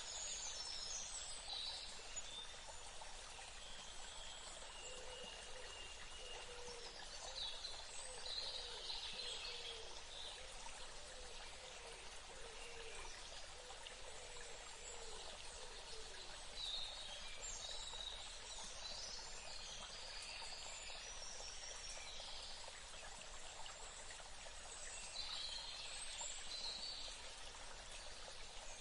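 Outdoor nature ambience: a steady background wash like running water, with birds chirping in short high spells of a second or two, about five times. A lower, wavering call runs beneath them for a while in the middle.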